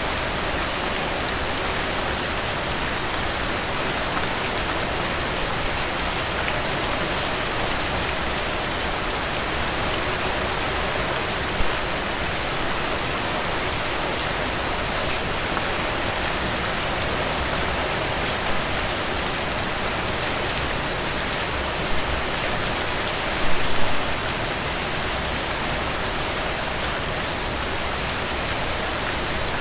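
Heavy rain falling steadily on a surface, an even hiss of many drops, with a few brief louder hits standing out, the largest a short cluster about two-thirds of the way through.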